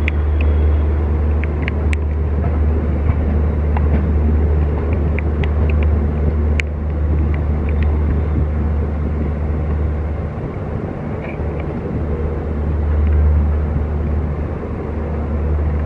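An LHB passenger coach running along the track, heard from its open door: a steady low rumble of wheels on rail with a few sharp clicks scattered through it.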